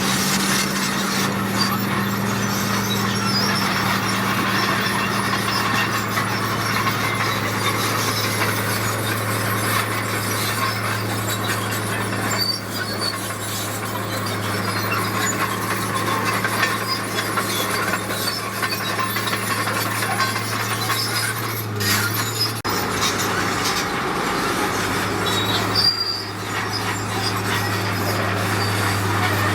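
Heavy construction machinery running steadily, a constant low engine hum under a continuous high metallic squealing and scraping.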